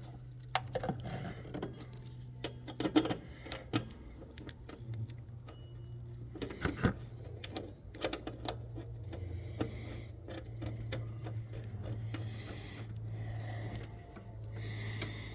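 Scattered metal clicks and taps from brake-line fittings and hand tools being handled while a proportioning valve is fitted, over a steady low hum.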